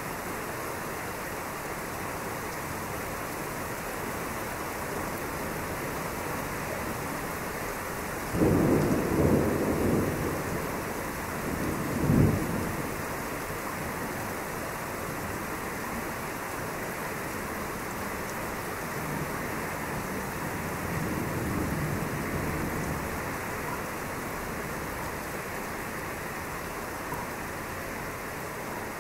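Thunderstorm with a steady hiss of rain. About eight seconds in, a sudden thunderclap rolls on for a few seconds, with a sharper crack about four seconds after it. A softer rumble of thunder swells and fades some seconds later.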